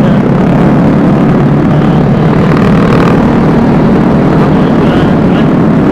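Steady rush of wind on the microphone with road and engine noise from a moving Vespa S 125 scooter, loud throughout.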